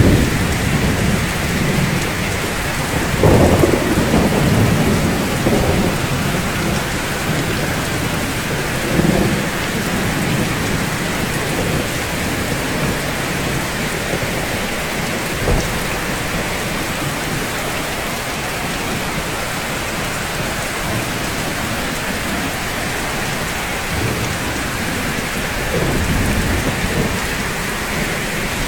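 Steady heavy rain falling on rooftops, with low rolling rumbles of thunder a few seconds in and again near the end. A single sharp tap about halfway through.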